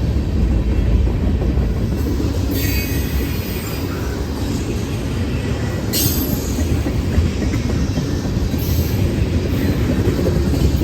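Freight train rolling past with a steady heavy rumble of its wheels on the rails. Brief high-pitched wheel squeals come about a quarter of the way in and again midway.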